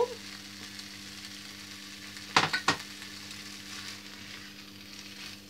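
Bean sprouts, vermicelli noodles and freshly added sweetcorn sizzling as they fry in a frying pan, with stirring, over a faint steady hum. About two and a half seconds in come two sharp knocks in quick succession.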